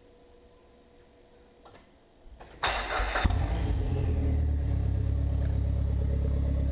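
2004 Dodge SRT-4 Neon's turbocharged 2.4-litre four-cylinder cranking briefly and starting, catching with a loud burst a little over two and a half seconds in, then settling into a loud, steady idle. It runs through only a 3-inch MPX downpipe and flex pipe, with the catalytic converter removed and the rest of the exhaust not yet fitted.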